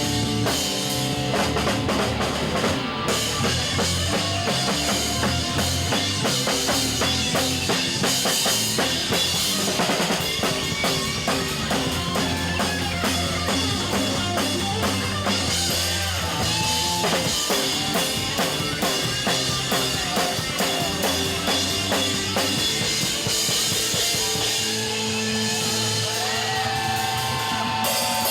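Live rock band playing an instrumental passage: a steady drum-kit beat with bass drum under electric guitar, without vocals.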